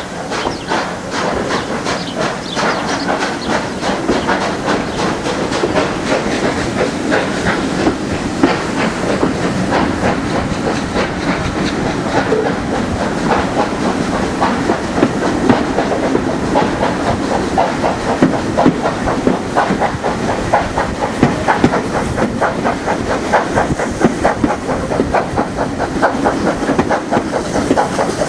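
Heritage steam train running on the line: a fast, steady run of beats over a hiss, a little louder after the first few seconds.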